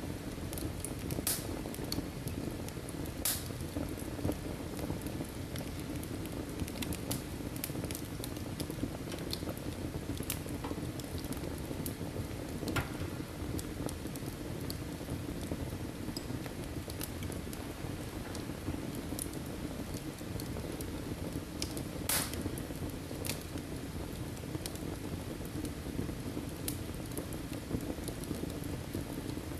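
Wood fire burning in a fireplace: a steady low rush of flames with scattered sharp crackles and pops from the burning logs, the loudest pop about two-thirds of the way through.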